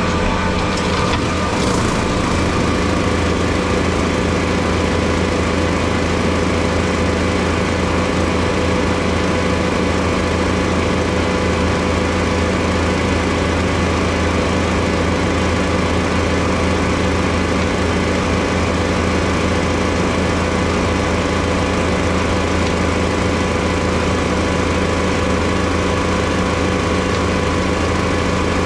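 Skid steer engine running steadily at working throttle with its brushcutter attachment spinning. There are a few cracks of brush breaking in the first couple of seconds.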